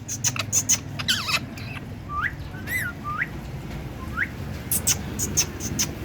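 Parrot giving four short whistles that rise or rise and fall in pitch, set among quick sharp clicks and chirps at the start and near the end.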